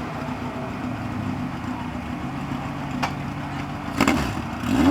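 Legend race car engine idling steadily, with a sharp click about four seconds in, after which it gets louder and begins to rev up near the end.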